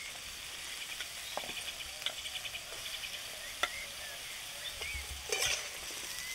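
Potato and taro pieces sizzling steadily in hot mustard oil in a steel kadai as ridge gourd is cut straight into the pan, with a few sharp clicks along the way. Near the end a metal spatula begins stirring.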